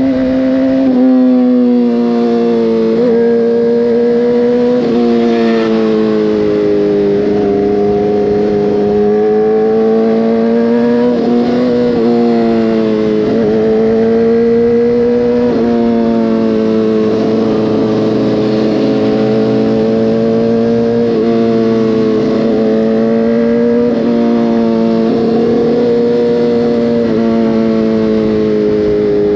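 Motorcycle engine running steadily under way, heard from on the bike, with the revs rising and falling and briefly dipping every few seconds as the throttle is worked.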